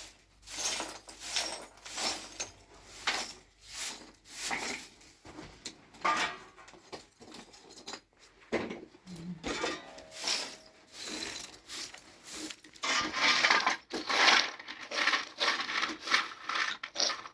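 Repeated rough scraping strokes, irregular at about one to two a second, louder in the last few seconds.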